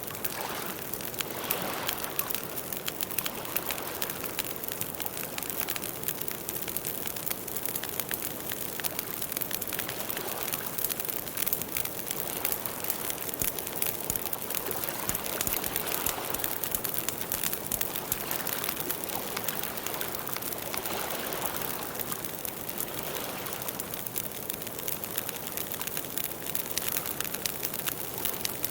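Campfire burning: the wood crackles and pops in a dense, continuous run of small snaps over a soft rushing of flames that swells now and then.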